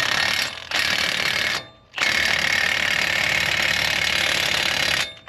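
High-torque impact wrench hammering on a nut in three runs: a short one ending about half a second in, one of about a second, and a longer one of about three seconds.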